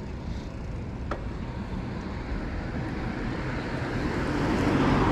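Wind rumbling on the microphone of a moving bicycle, with a car approaching and passing that grows louder and is loudest near the end. A single sharp click about a second in.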